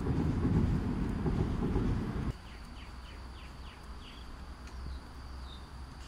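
Low rumbling noise that cuts off abruptly about two seconds in. What is left is a steady high insect drone and a bird calling a quick run of about five falling notes, then two single notes.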